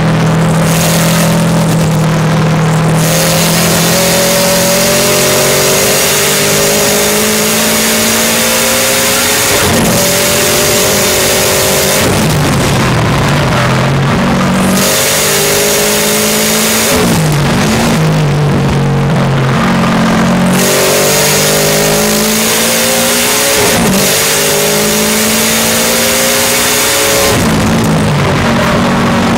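Subaru Impreza STi's turbocharged flat-four, heard from inside the cockpit being driven hard on a race track. The engine note climbs under full throttle and drops at each upshift. It falls away as the driver lifts off and brakes for corners, several times over, with loud wind and road noise.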